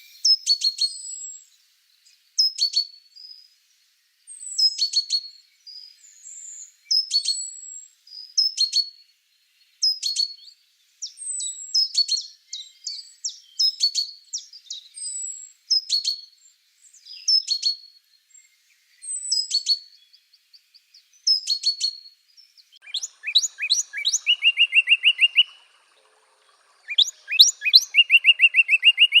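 Songbirds singing: short, high, chirping song phrases repeated about every two seconds, then near the end rapid trills of quick repeated notes.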